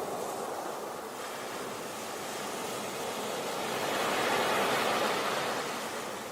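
Sea waves breaking on a beach, a steady wash of surf that swells to a crest about two thirds of the way through and then eases back.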